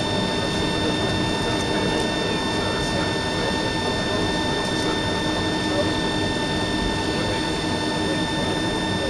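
Cabin noise inside a Boeing 757-200: the jet engines running at a steady setting, a broad rush with several steady whining tones over it, neither spooling up nor down.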